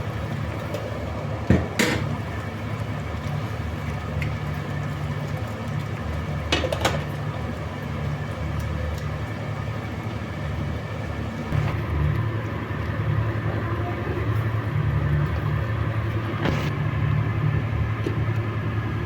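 Steady low mechanical hum of a running motor, with a few sharp knocks about two, seven and seventeen seconds in.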